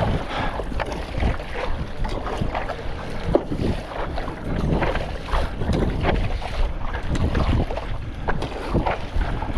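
Strong wind buffeting the microphone, with irregular splashes and slaps of choppy water against a stand-up paddleboard.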